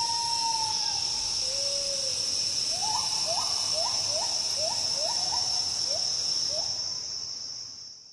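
Rainforest insects, likely cicadas, keep up a loud steady high buzz while a gibbon calls: a long held hoot and a lower one, then a run of quick rising whoops. The sound fades out near the end.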